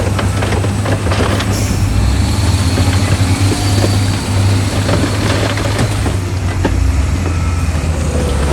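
Heavy diesel engine of earthmoving machinery running steadily under load, a deep continuous drone, with scattered short knocks and clatter over it.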